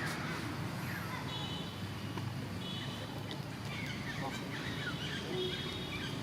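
Short, high chirping animal calls, coming in three brief bouts among fainter chirps, over a steady low rumble.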